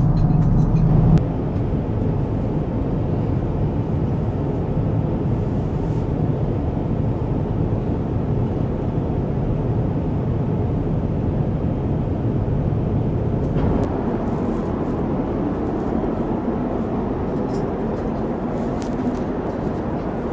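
Steady rushing noise of an Airbus A350-1000 airliner cabin, with no speech. The sound changes abruptly about a second in, where a low hum drops out, and shifts again near the middle.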